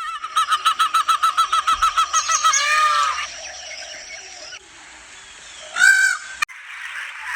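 A domestic fowl calling: a fast run of short repeated notes, about seven a second, for roughly two and a half seconds, then a few falling calls, and one more loud call about six seconds in.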